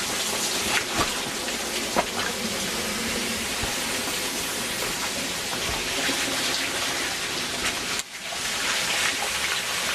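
Steady hiss of falling water, like heavy rain, with a few light knocks; it drops out briefly about eight seconds in.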